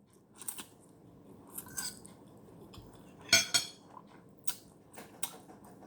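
Cutlery clinking against a dish while eating noodles: a handful of scattered clinks, the loudest cluster about three and a half seconds in.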